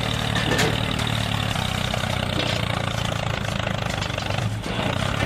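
Tractor engine idling steadily with an even, low throb.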